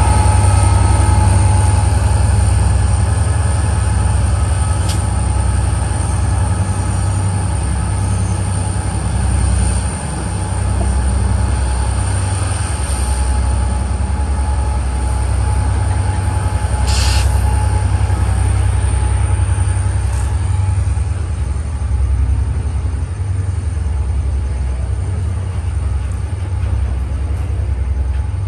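Train running along the track: a loud, steady low rumble, with a faint high whine that fades over the first few seconds and a brief hiss about 17 seconds in.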